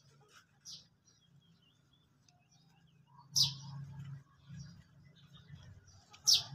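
Birds chirping outdoors: a few short, sharp chirps, a faint one early and two loud ones about three seconds in and near the end, over a low steady hum.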